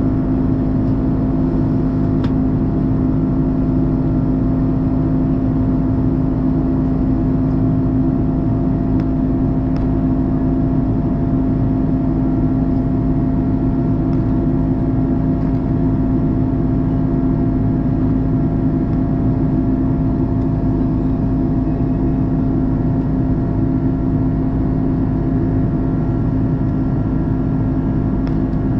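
Steady drone inside the cabin of an Airbus A330-300 with Rolls-Royce Trent 700 engines: an even rush of engine and air noise with a few steady humming tones over it, unchanging throughout.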